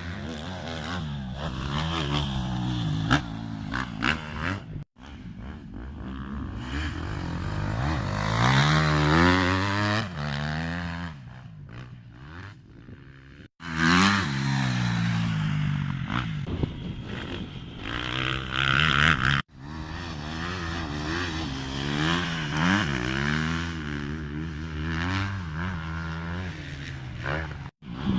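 Motocross motorcycle engines revving hard and dropping back over and over as the bikes accelerate and shift. The sound breaks off abruptly three times where short clips are joined.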